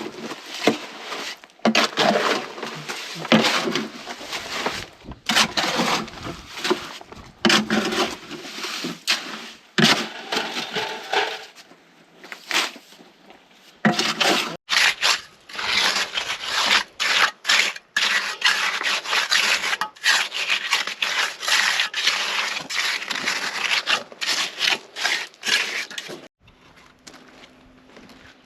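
Repeated gritty scraping and crunching, in strokes a second or two long with short gaps, stopping shortly before the end.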